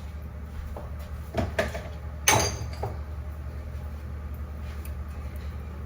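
A few short knocks and clicks of kitchen containers and dishes being handled, the loudest a little over two seconds in, over a steady low hum.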